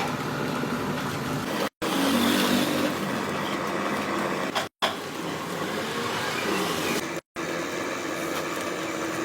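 An engine running steadily under a noisy hiss, with three brief dropouts to silence where the footage is spliced.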